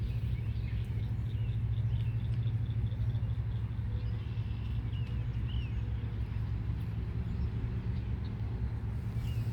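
A steady low rumble, with a few faint bird chirps over it.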